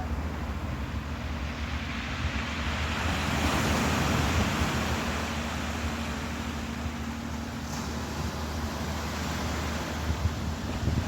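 Surf washing in, swelling about three seconds in and easing off, with wind buffeting the microphone and a steady low hum underneath.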